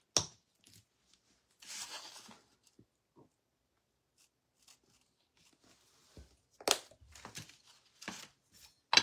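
Paint being squeezed out of a plastic bottle onto a plate, with a short sputtering rustle about two seconds in, then scattered light clicks and taps as the bottle and tools are handled, the sharpest near the end.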